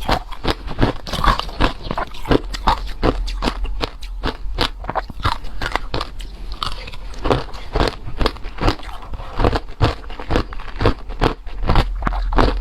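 A person chewing ice: a steady run of sharp crunches, several a second.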